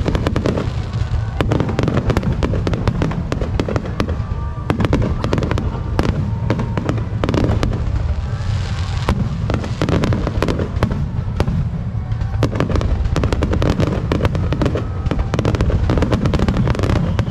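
Aerial fireworks finale: a nonstop barrage of shell bursts and crackle, many reports every second over a continuous low rumble.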